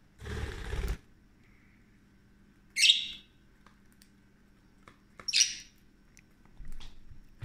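Small pet parrots giving two short, shrill chirps about two and a half seconds apart. A burst of noise lasting about a second comes just before, a quarter second in.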